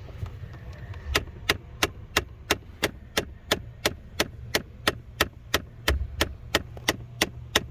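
A 2014 Ford Fiesta's recirculation door actuator ticking behind the dash, a steady run of sharp clicks about three a second starting about a second in, over a low hum. It ticks at shut-off as it tries to park the recirc door; the actuator is faulty and due for replacement.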